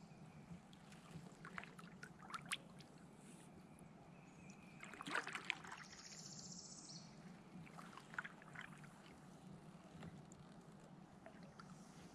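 Faint kayak paddling: the paddle dipping and dripping, with a few light knocks and splashes, the strongest about five seconds in.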